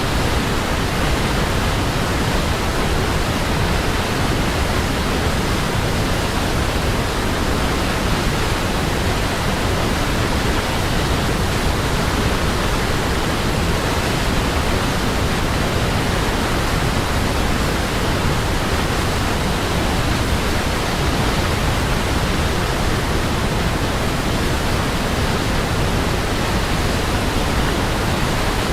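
Waterfall: a steady, even rush of falling water that never changes or breaks.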